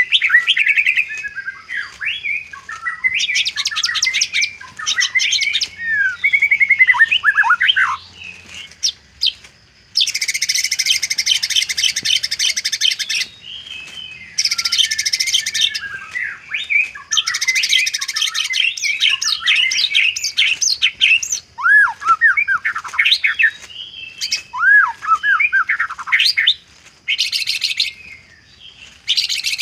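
White-rumped shama (murai batu) singing a long, varied song filled with mimicked calls of other birds. Swooping, downward-sliding whistles alternate with several dry, rattling trills, the longest lasting about three seconds from ten seconds in.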